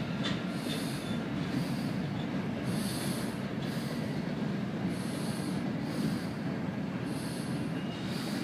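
Freight train's covered hopper cars rolling past at low speed: a steady low rumble of wheels on rail, with short hissing sounds recurring about once a second.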